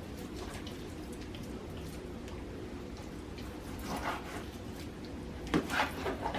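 A knife slicing a raw boneless chicken breast in half on a cutting board over a steady low room hum, with a few short, soft cutting and handling sounds about four seconds in and again near the end.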